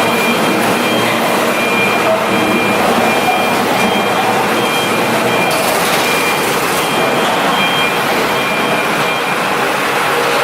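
Loud steady machine noise with a high beeping tone that sounds on and off over it.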